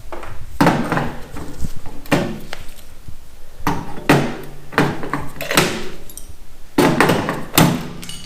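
Knocks on a dented car fender's sheet metal during body repair: about a dozen irregular strikes, some in quick pairs, each ringing briefly.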